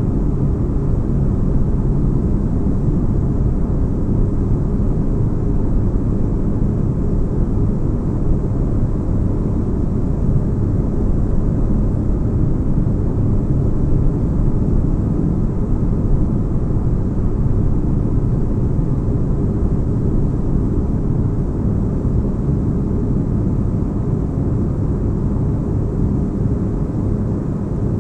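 Steady deep bass rumble with a soft hiss above it, a sci-fi spaceship-interior ambience of the kind sold as white noise for sleep.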